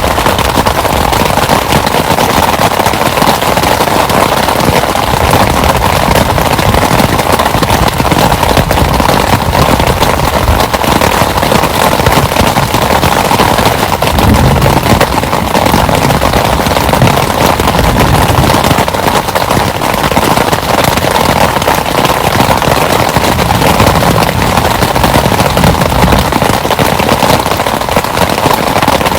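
Heavy rain falling on a shelter: a loud, dense, steady patter.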